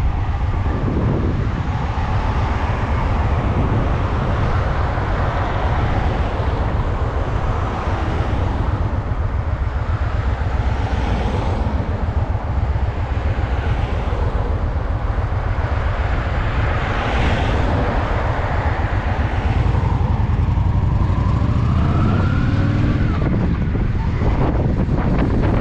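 Honda Shadow VT750's V-twin engine running as the motorcycle rides along, heard from the rider's seat; around twenty seconds in the pitch rises as the engine revs up under acceleration.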